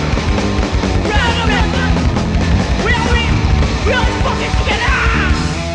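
Live hardcore punk band playing loud, with distorted guitars, bass and drums under yelled vocals.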